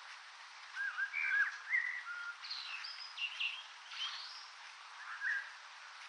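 Small birds chirping: a run of short whistled chirps and trills starting about a second in, then one more brief call near the end, over a steady hiss.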